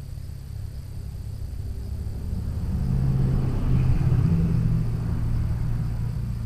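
Low rumble of a vehicle going past, swelling to a peak about three to four seconds in and then fading.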